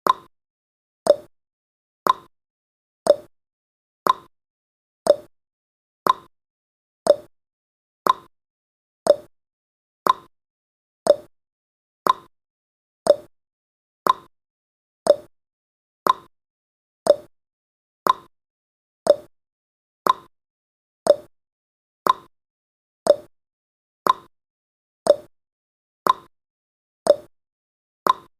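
Clock tick-tock sound effect of a countdown timer: short, sharp ticks exactly once a second, alternating between a higher and a lower tick.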